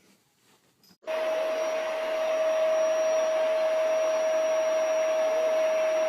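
A household electric motor appliance switched on about a second in, running steadily with a rushing air noise and one held whining tone.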